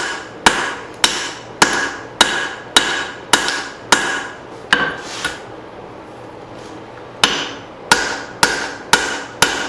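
Cross-peen hammer striking hot leaf-spring steel on an anvil while drawing out a hatchet's blade. The blows come at a steady rhythm of about two a second, each with a short metallic ring. They pause for about two seconds midway, then five more blows follow.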